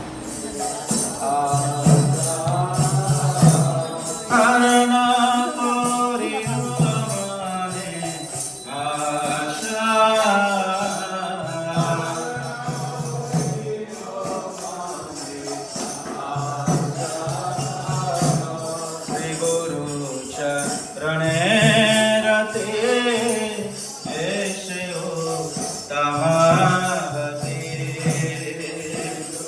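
Devotional music: a voice singing a chant over jingling hand percussion.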